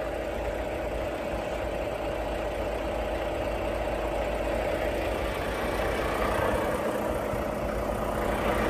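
Semi-truck diesel engine idling steadily, a continuous even hum with a low rumble.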